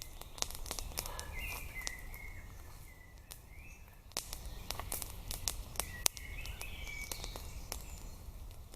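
Small birds chirping in short calls, over many irregular sharp crackles and snaps.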